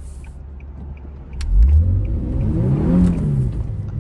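Nissan VQ-series V6 engine running low, then revving up about a second and a half in, the pitch climbing and then dropping back.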